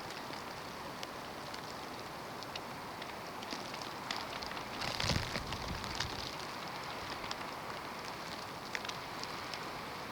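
Snowstorm wind blowing steadily, with scattered light ticks of snow or ice hitting, and a stronger gust about five seconds in.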